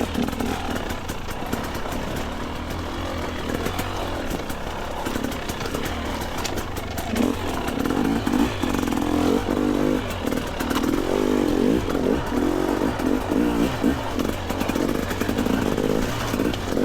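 Two-stroke dirt bike engine running, its revs rising and falling in repeated short blips, busiest in the second half.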